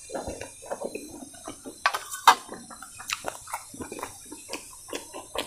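Close-up mouth sounds of a person eating chicken off the bone: irregular wet chewing, smacking and sucking clicks, with one sharp loudest click a little over two seconds in.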